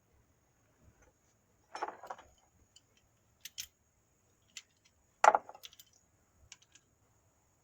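Metal hand tools and brake parts clinking and knocking: scattered light clicks, with two louder knocks about two seconds in and past the five-second mark, the second one the loudest.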